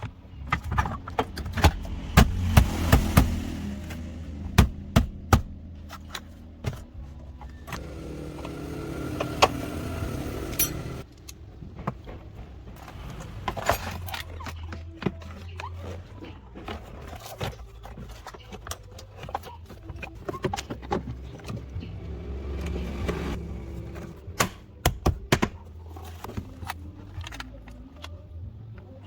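Repeated knocks, clanks and clicks of hand tools and parts being handled during car repair work, over a low steady hum.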